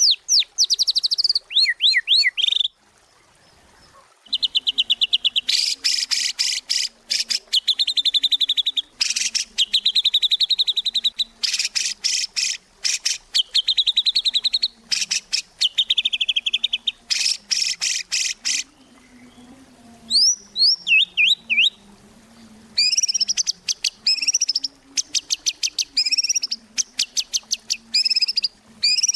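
White-rumped shama singing vigorously: long runs of rapid repeated high notes and chattering trills, broken by short pauses, the first about three seconds in.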